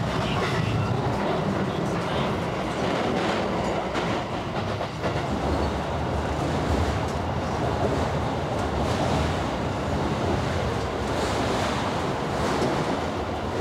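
Train running at speed, heard from inside the passenger car: a steady rumble of wheels on the rails with faint clicks of the track.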